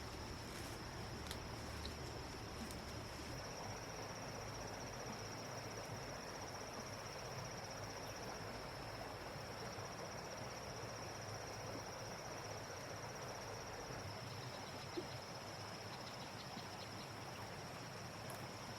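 Insects trilling steadily at one high pitch, over a faint hiss of background noise.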